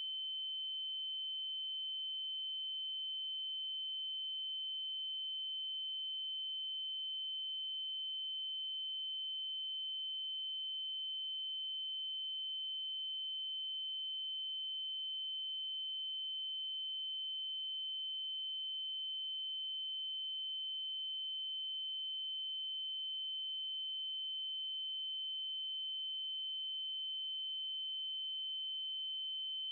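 Electronically generated 3072 Hz triangle-wave tone: a single steady, high-pitched tone that does not change.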